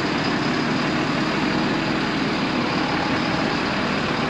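Heavy diesel engine of a mobile crane running steadily at idle, a continuous low rumble.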